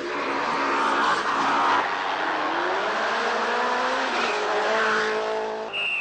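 A rally car's engine at full throttle, climbing in pitch through the gears with upshifts about two and four seconds in, over the hiss of tyres on loose gravel. Near the end the sound cuts abruptly to another car.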